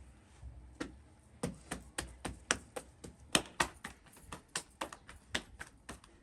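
A quick, uneven series of sharp taps or knocks, about three to four a second, some louder than others.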